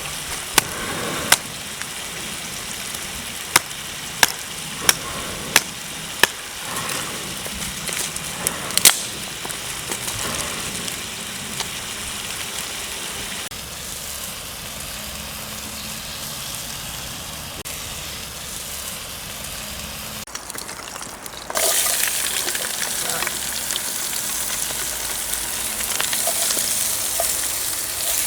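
Food sizzling in a hot pan, a steady hiss with a series of sharp clicks and taps in the first nine seconds. About three quarters of the way through, the sizzle suddenly gets louder, as if more food hit the hot surface.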